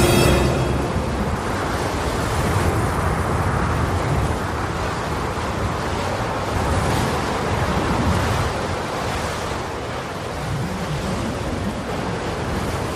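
Steady rushing noise of wind and water aboard a boat, with wind buffeting the microphone.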